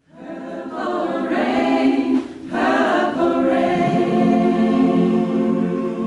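A choir singing held chords, with a brief break about two seconds in before a long sustained chord.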